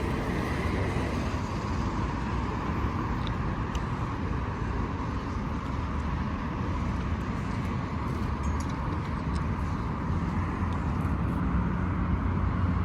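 Steady road traffic noise with vehicle engines running. A low, steady engine hum comes in near the end.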